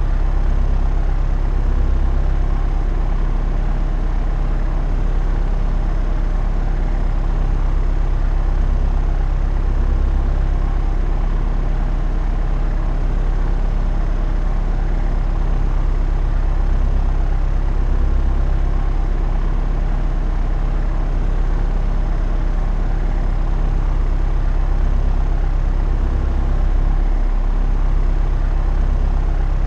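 Propeller aircraft in flight: a steady, unchanging drone of engine and propeller, strongest in a deep low hum.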